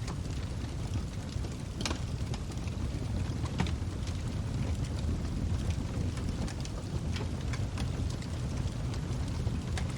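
Log fire burning in a fireplace: a steady low rumble of the flames with frequent small crackles and pops from the burning wood, a few sharper ones standing out.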